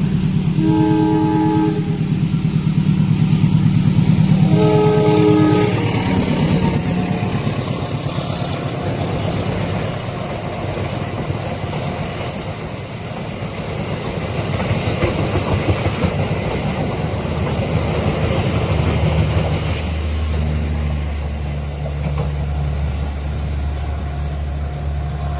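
Diesel train horn sounding two blasts of about a second each, some four seconds apart, over the locomotive's engine. The train then passes the crossing with a steady rush of wheels on rail. Near the end a low, steady engine hum takes over.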